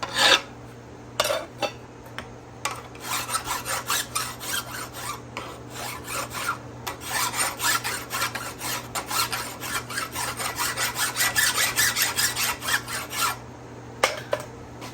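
Steel being worked with a hand file in repeated back-and-forth strokes: a few separate strokes at first, then about ten seconds of quick, even strokes that stop about a second and a half before the end.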